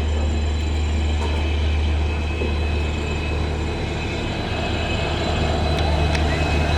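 Train running on the line, a steady low rumble with a thin high-pitched whine over it.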